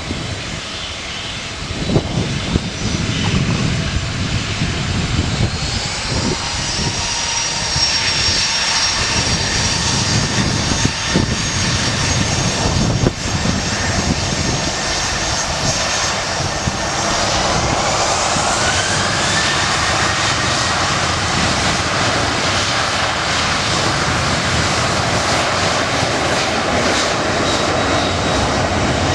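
Airliner engines running loud and steady, with a whine that rises in pitch about six seconds in and again, higher, around seventeen seconds in, as the engines spool up.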